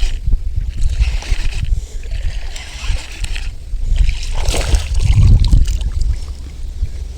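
Strong wind buffeting the microphone with a constant low rumble, with repeated bursts of splashing water, the strongest about four and a half seconds in.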